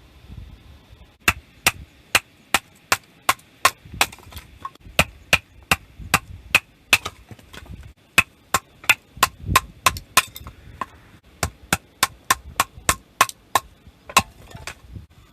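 A rapid, regular series of sharp strikes, about three a second, each with a short ring; they begin about a second in, pause briefly twice, and stop near the end.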